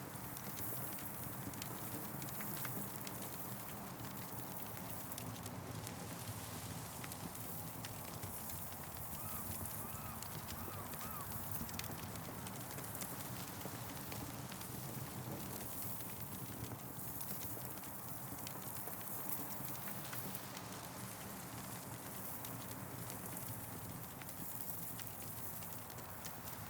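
Campfire crackling with frequent small pops over a steady hiss of wind through trees, the hiss swelling and easing. A brief faint warbling sound comes about ten seconds in.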